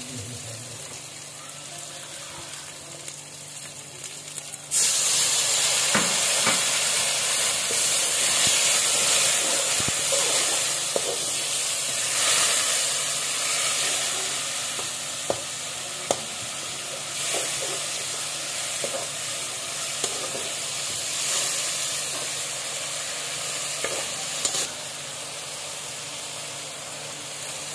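Onion-tomato masala frying in mustard oil in an aluminium karahi, sizzling quietly. About five seconds in, liquid goes into the hot pan and a loud, hissing sizzle takes over, while a slotted metal spoon stirs and clicks against the pan. Near the end the sizzle drops back to a quieter level.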